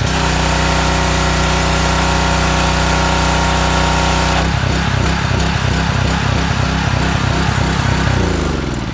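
Husqvarna pressure washer's small pull-start gasoline engine running with its newly fitted pump. It holds a steady note for about four and a half seconds, then runs unevenly. Near the end the pitch falls as it shuts off and winds down.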